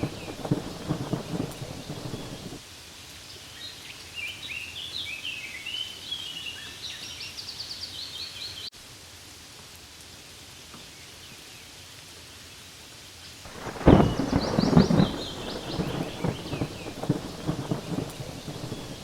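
Rain falling with thunder: a rumble dies away about two and a half seconds in, leaving a quieter stretch of rain with high bird chirps, then thunder breaks in suddenly and loudly about fourteen seconds in.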